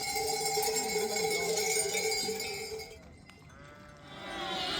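Flock livestock bleating: one long, steady bleat lasting about three seconds, then fainter curving calls near the end.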